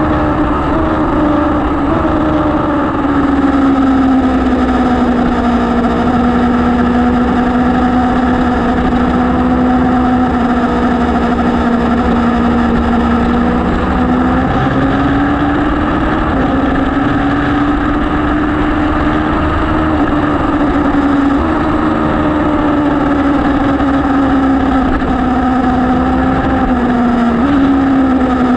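Superbike motorcycle engine running continuously at high revs, its pitch slowly rising and falling, with a few sudden small jumps in pitch.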